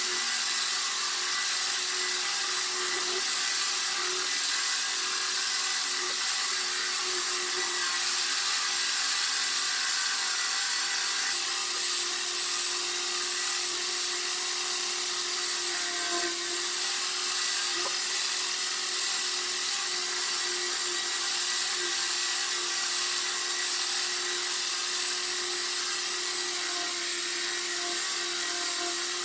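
Power sander running steadily against car body panel, with a continuous hum under a high sanding hiss.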